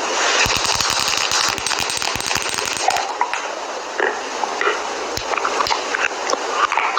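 Close-miked crackling and tapping of makeup items being handled: a fast run of crackles for about the first three seconds, then scattered sharp clicks and taps.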